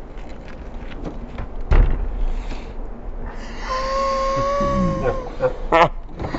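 A dull knock, like something hitting a truck's underside, about two seconds in, then a man's long held yell of about a second and a half, with short voice fragments after it.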